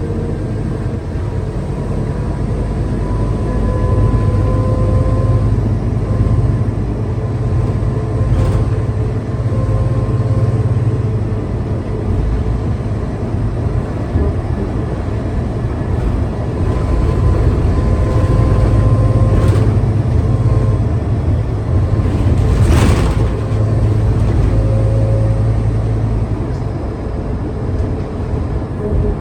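Scania K320UA city bus's diesel engine and drivetrain running under way, a steady low drone with a whine that rises and eases off several times as the bus speeds up and slows. A few sharp clicks or knocks sound over it.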